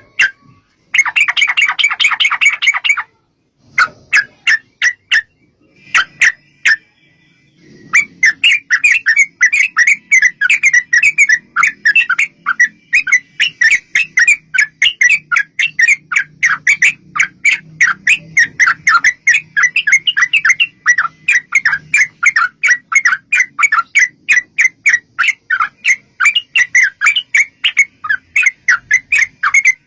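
Yellow-vented bulbul (trucuk) singing: a short, fast chattering burst about a second in, a few scattered notes, then from about eight seconds a long unbroken run of quick notes, several a second — the long 'ropel' song used to lure other trucuk into answering.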